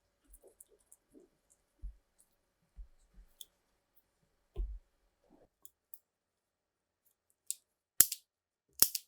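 Faint, scattered taps and clicks of small parts being handled, then two sharp clicks about a second apart near the end.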